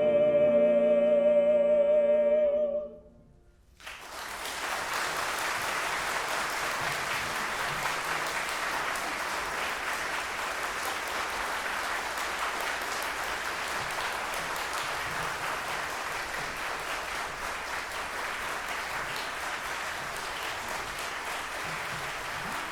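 The final held note of the song, sung with vibrato by opera voices, ends about three seconds in. After a brief silence the audience bursts into steady applause that carries on.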